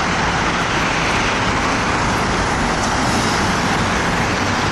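Steady road traffic noise, a constant rushing hiss with no breaks or distinct events.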